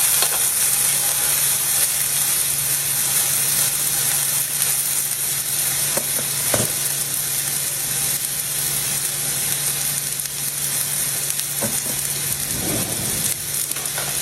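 Filet steak searing on a very hot griddle: a steady, dense sizzle of fat and juices, with a low steady hum underneath and a few short clicks.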